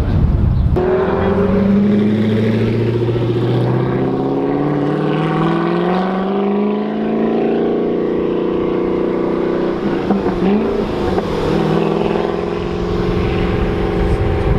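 Car engine accelerating, its pitch climbing over several seconds and then holding a steady drone.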